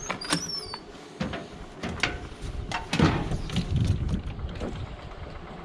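Peterbilt dump truck's diesel engine on a cold start, cranking and firing into a low rumble that is loudest about three seconds in and keeps running.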